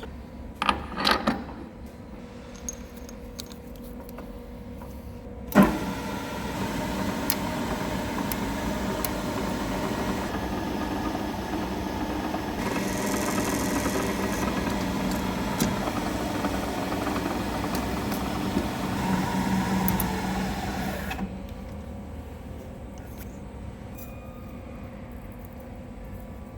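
A few metal clinks, then a workshop machine starts with a knock about five seconds in. It runs steadily for about fifteen seconds and cuts off suddenly.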